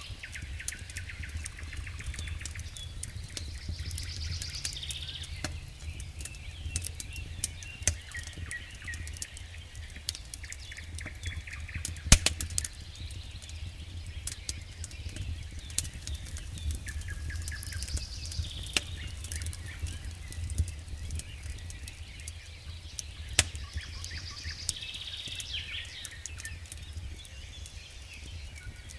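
Campfire crackling with irregular sharp pops, one louder pop about twelve seconds in, while birds sing short chirping phrases every several seconds.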